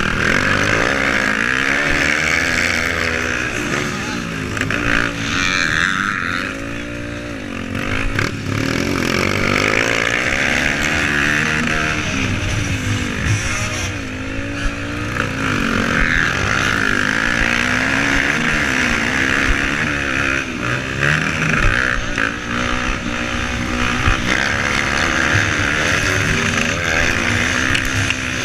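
Motocross motorcycle engines racing, revving up and falling back over and over as the bikes accelerate and shift, with more than one engine heard at once.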